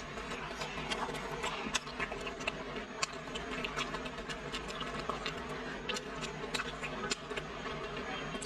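Close-up chewing of pan-fried five-spice rolls (ngo hiang, a Fujian snack). Frequent, irregular sharp crackles and clicks of the crisp skin and wet mouth sounds run over a steady low hum.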